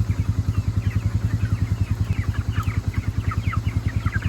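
A small engine running steadily with an even low thumping, about eight beats a second, while meat chickens cheep in short, falling peeps over it.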